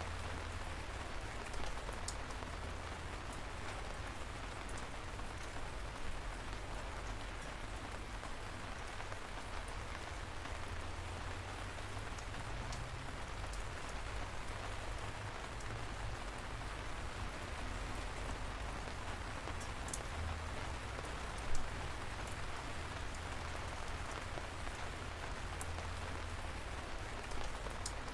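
Light rain falling steadily: an even patter with scattered sharper drop ticks and a low rumble underneath, and one louder drop about two-thirds of the way through.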